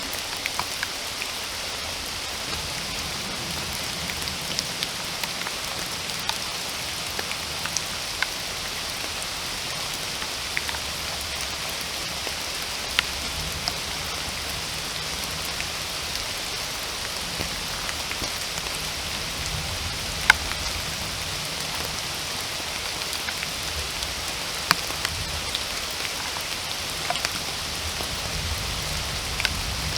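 Steady rain falling in a forest: a continuous even hiss with scattered sharp drips of larger drops, the loudest about twenty seconds in.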